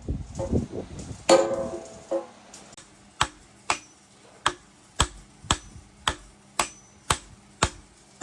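A couple of louder clatters, then a steady series of sharp taps about two a second, starting about three seconds in.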